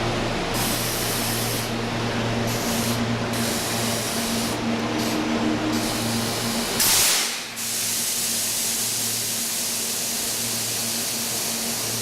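Electric commuter train pulling into a stub-end platform, with a steady electrical hum over a noisy hiss. About seven seconds in comes a short, loud blast of air as the train comes to a stop, and the low rumble drops away after it.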